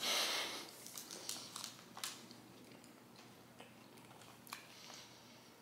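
A bite into a thin-crust flatbread pizza slice at the start, then quiet chewing with scattered faint mouth clicks.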